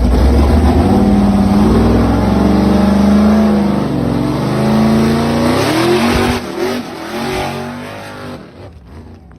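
Loud car engine revving, its pitch rising and falling repeatedly, then dying away over the last few seconds.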